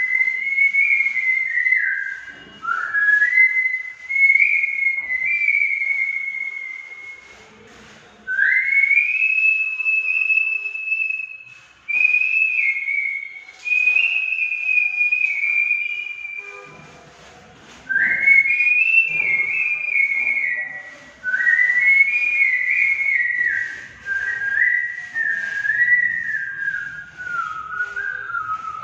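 A man whistling a melody: a single clear tone stepping and sliding between notes, in phrases of a few seconds with short breaths between them, the last phrase stepping steadily down in pitch.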